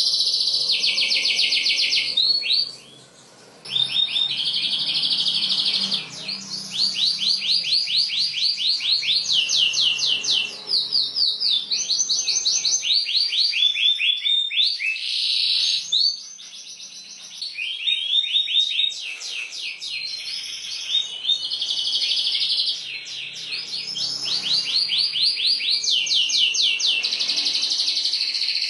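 Canary singing a long, unbroken song of fast rolling trills. Each roll is a rapid run of repeated high notes, and the song changes from one roll to the next, with short breaks about three seconds in and again past the middle.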